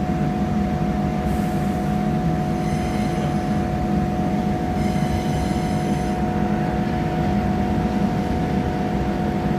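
Passenger train running, heard from inside the carriage: a steady low rumble of wheels and running gear under a constant humming drone. A faint high-pitched whine comes in briefly twice, about three and five seconds in.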